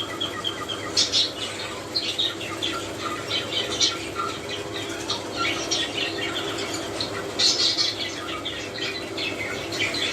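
English (show) budgerigars chattering with many short squawks and chirps in quick, uneven succession, over a steady low hum.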